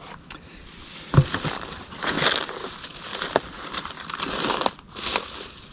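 A splitting axe strikes a round of black cherry about a second in with one sharp, loud knock. Crackling and tearing follow as the wood splits, then a few lighter knocks.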